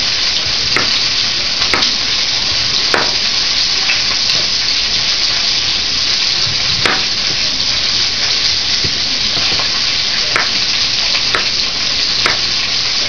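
A knife chopping carrots on a cutting board: a handful of sharp, irregularly spaced chops over a steady hiss.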